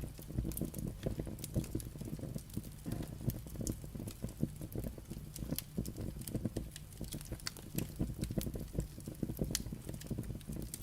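Firewood burning, crackling and popping in quick irregular snaps over a low steady rumble of the fire.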